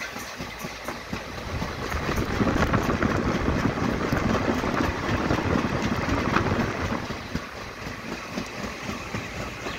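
Lohit Express passenger train running along the track, heard from inside one of its moving coaches: a steady rumble of wheels on rail with light clatter, getting louder about two seconds in.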